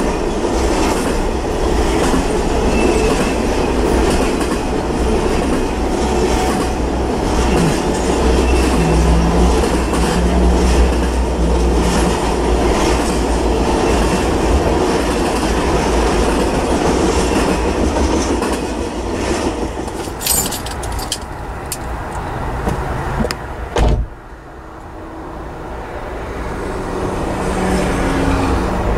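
Norfolk Southern double-stack intermodal freight train rolling past: a steady rumble and clatter of wheels on rail, with a few sharp clacks about 20 seconds in. About 24 seconds in, the last car goes by and the sound drops off suddenly, leaving a quieter noise that slowly grows again.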